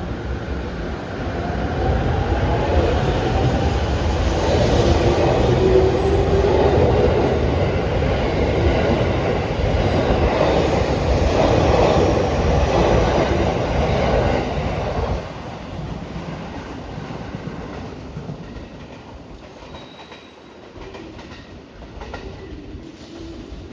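Electric commuter train running along the platform, its wheels rumbling and clattering on the rails. The sound is loud for about fifteen seconds, then drops off sharply.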